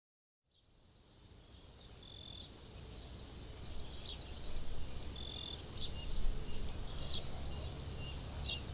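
Outdoor ambience fading in from silence: a low, steady background noise with scattered short bird chirps and calls over it.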